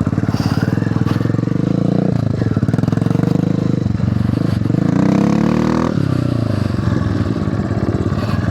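A mini bike's engine revving under way, pitch climbing for a few seconds as it accelerates, then dropping abruptly about six seconds in before pulling again.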